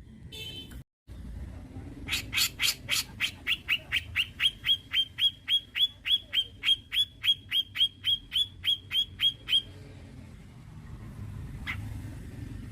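Grey-cheeked bulbul (cucak jenggot) calling: a long, fast run of sharp, identical notes, each one dropping quickly in pitch, about four a second for some seven seconds, then it stops.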